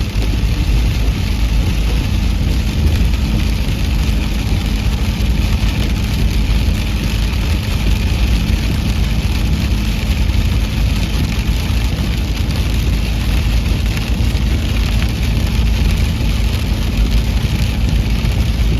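Steady low rumble and hiss of a car driving along a highway, with an even engine hum underneath.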